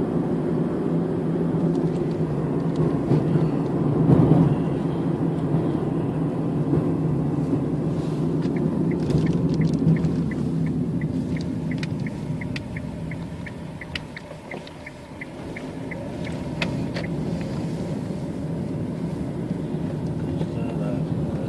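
Steady low rumble of a road vehicle heard from inside while it drives, easing off about two-thirds of the way in and then picking up again. Through the middle a regular ticking, about three a second, runs for around eight seconds.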